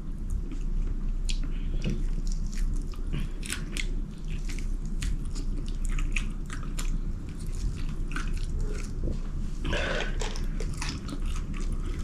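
Close-miked chewing and biting on sauced fried chicken wings, with many short wet mouth clicks and smacks.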